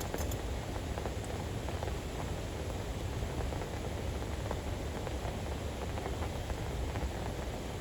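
Heavy rain falling steadily: a dense, even hiss with scattered ticks of single drops and a low rumble underneath.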